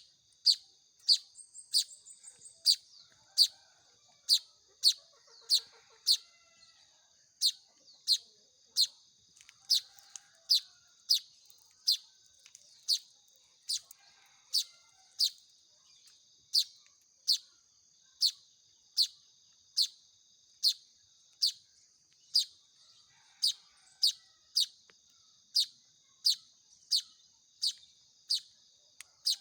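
Weaver-bird (manyar) chick calling: one sharp, high chirp repeated evenly, about three every two seconds, over a faint steady high-pitched whine.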